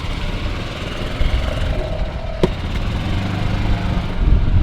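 A motor vehicle's engine running steadily with a low rumble, and one sharp click about halfway through.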